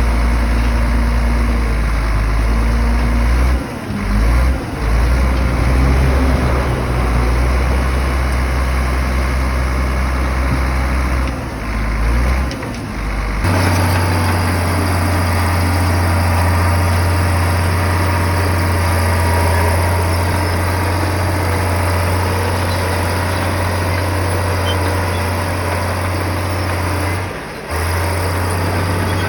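Heavy bulldozer diesel engine running with a steady low drone. About halfway through the engine note changes abruptly to a slightly higher steady pitch, and there are a few brief drops in the sound.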